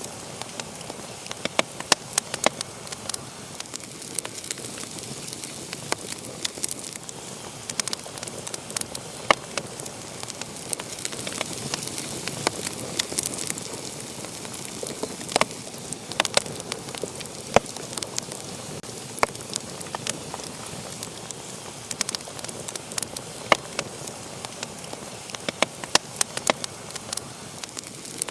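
Wood fire burning in a fireplace: a steady hiss with frequent irregular sharp crackles and pops.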